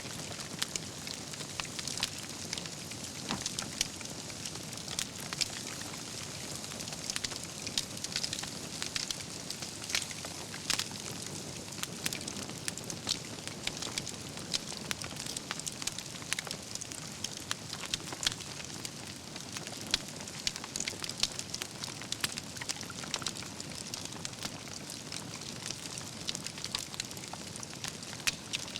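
Wood campfire burning, with a steady hiss and frequent crackles and pops from the burning logs.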